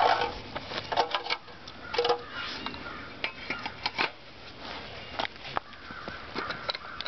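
Bird seed and a plastic cup being handled while filling a bird feeder: irregular clicks and rattles of seed and plastic.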